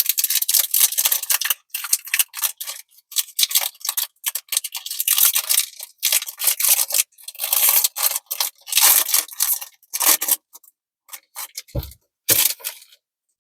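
Foil booster pack wrapper crinkling and tearing in quick irregular rustles as the pack is opened, then two short low thumps near the end.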